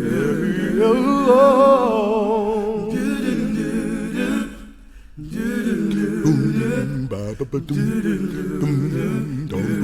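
A cappella vocal group singing wordless, humming harmonies with wide vibrato. The sound dips almost away about five seconds in, then the layered voices come back.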